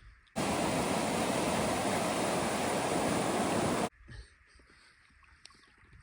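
Loud, steady rushing of tidal rapids in full flow, cutting in abruptly and cutting off just as abruptly after about three and a half seconds; faint water noise with a few small knocks follows.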